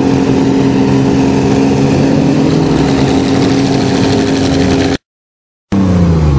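Vehicle engines running hard and steady under load as the vehicles push against each other. About five seconds in the sound cuts out completely for under a second, then comes back with an engine's pitch falling.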